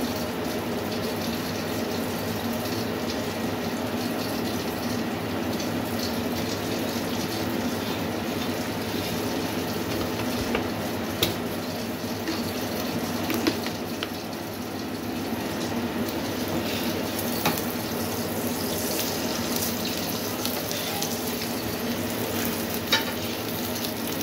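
Aloo paratha frying in oil in a cast-iron skillet: a steady sizzle with a few scattered sharp clicks.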